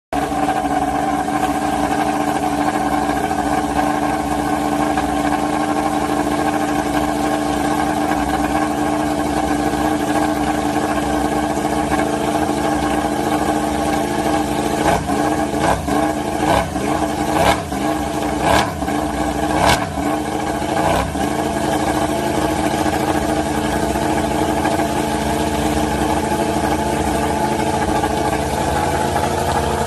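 Yamaha YZR-M1 MotoGP bike's crossplane inline-four engine warming up at a steady fast idle, with a run of short throttle blips about halfway through before it settles back to idle.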